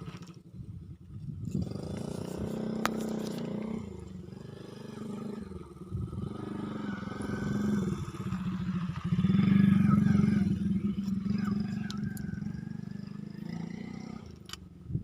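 A small motorcycle engine running as it goes by, getting louder to its loudest about ten seconds in, then fading.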